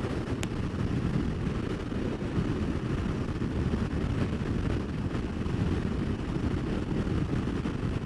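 Steady low wind rush and engine drone while riding an Aprilia Tuareg 660 motorcycle at road speed, with a brief click about half a second in.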